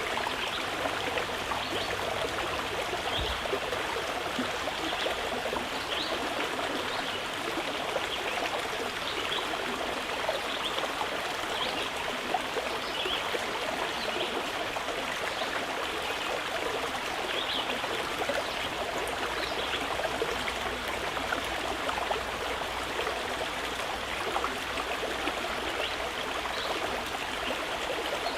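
Mountain river flowing steadily over rocks, an even rushing and trickling of water.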